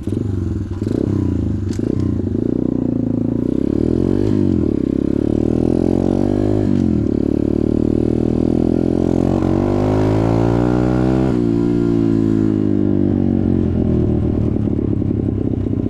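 Off-road motorcycle engine running while riding, its pitch rising and falling several times as the throttle is opened and closed.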